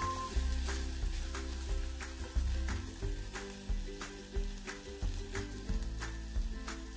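Chopped onion sizzling in hot oil in a clay pot, stirred and scraped with a wooden spoon, over background music with changing sustained notes.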